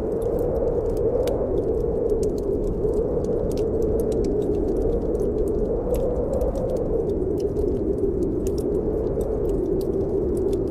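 Snowstorm wind blowing steadily, its low moan swelling and easing every few seconds, over the scattered small crackles and pops of a wood fire burning in a fireplace.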